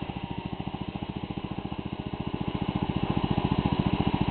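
1980 Power King 1618 garden tractor engine running steadily with an even, fast chugging beat, getting louder over the last second or so.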